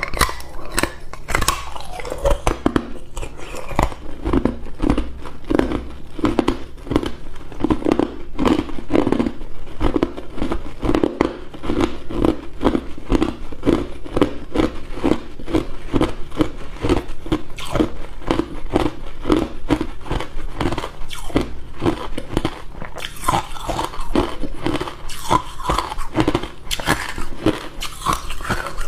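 Hard ice cubes crunched and chewed close to the microphone, a quick, steady rhythm of crunches.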